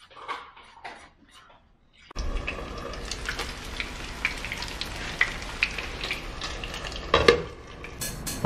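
A spoon stirring batter in a bowl, light scraping clicks. Then from about two seconds in, battered kahawai pieces sizzling in hot oil in a frying pan, a steady hiss with scattered pops.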